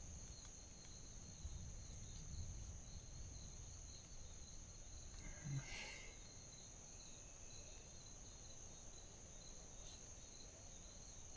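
Faint, steady high-pitched insect chorus of crickets, with a low rumble in the first few seconds and one short faint sound a little past halfway.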